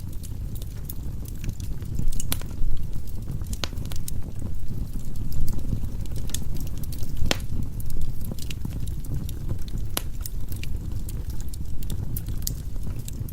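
Firewood burning in a fireplace: a low, steady rumble of flame with sharp crackles and pops scattered irregularly throughout.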